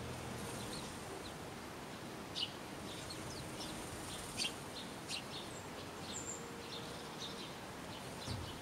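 Small birds chirping: short high calls scattered throughout, the loudest a little over two seconds in and about four and a half seconds in, over a steady faint hiss.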